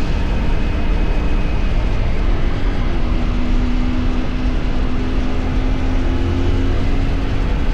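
CFMOTO 450SR parallel-twin motorcycle engine running under way, heard through heavy wind noise. The engine note climbs a little about two seconds in and then holds steady.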